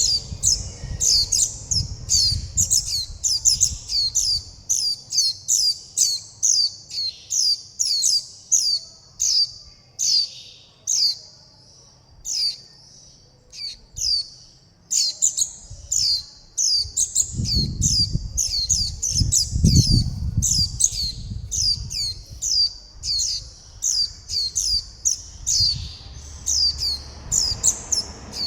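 Young white-eye chicks calling, a rapid run of short, high, downward-sliding calls several a second: begging calls for food and contact calls to the parent. A brief lull near the middle.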